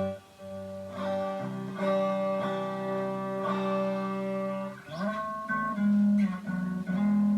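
Distorted electric guitar, a Strat-style guitar played through a distortion pedal into a small amp head and speaker cab. It plays held chords and notes that change about every second, with a pitch bend upward about five seconds in.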